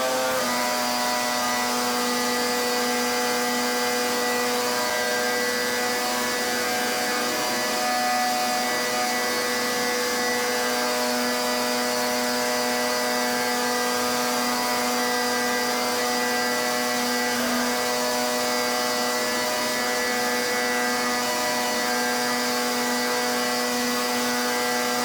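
Pressure washer running steadily: a constant whine over the hiss of the water jet spraying onto the surface.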